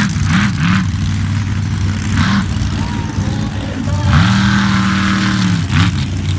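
Monster truck engine revving hard, its pitch swooping down and back up several times with a longer held rev about two-thirds of the way through.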